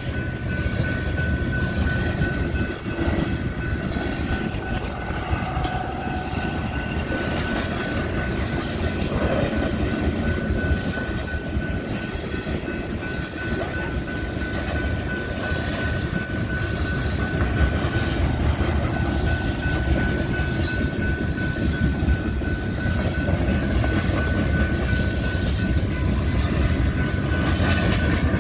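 Train rolling past, with a loud, steady rumble of wheels and cars on the rails, some clicking from the track, and a thin steady high tone over it.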